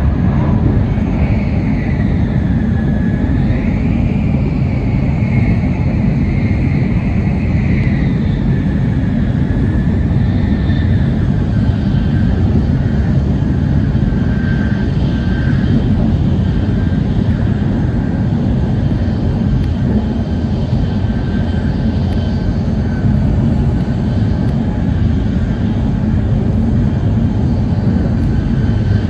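N700S Shinkansen train running at speed, heard inside the passenger cabin: a steady heavy rumble with a high whine that wavers in pitch over the first several seconds, then holds steady.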